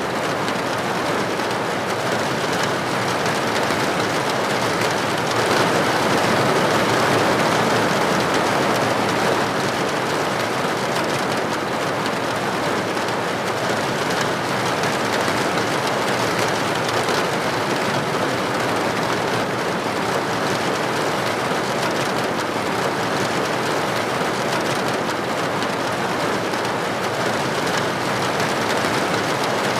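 Steady rainfall: a dense, even hiss of drops that swells a little about six seconds in.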